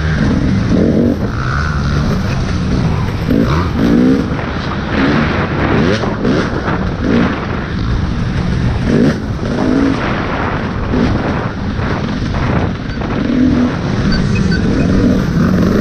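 Off-road motorcycle engine revving up and down again and again under race riding, picked up by a helmet-mounted camera with a lot of wind and rumble over the microphone.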